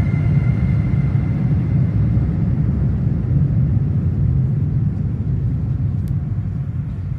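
EU200 electric locomotive running during shunting: a steady low rumble with a few whining tones that fade away about two seconds in, the rumble slowly getting quieter.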